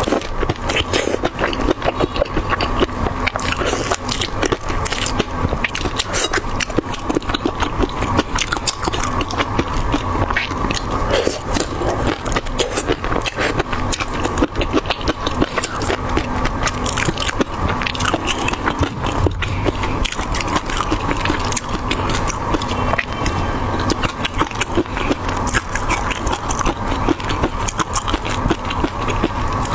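Close-miked biting and chewing of whole shrimp in a chunky chili-garlic sauce: a dense, continuous run of crackling clicks and scrapes, over a steady low hum.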